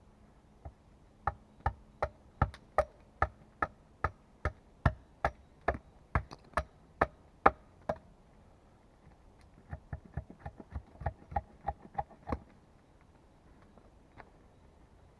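A hand tool striking wood: a run of about sixteen sharp, steady blows at roughly two a second, then after a pause a quicker run of lighter blows.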